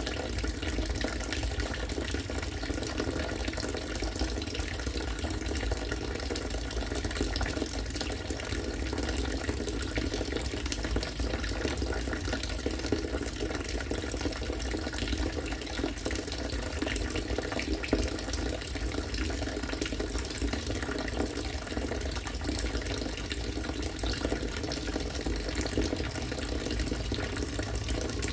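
Harvested rainwater falling in a steady stream into water, splashing and bubbling continuously.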